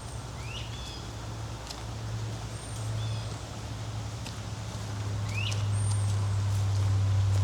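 A steady low drone that grows louder over the last few seconds, with a bird giving short chirps a few times.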